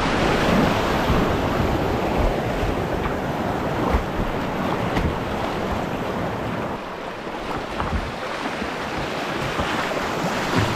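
Whitewater rapid rushing in a steady roar of water, with wind buffeting the microphone.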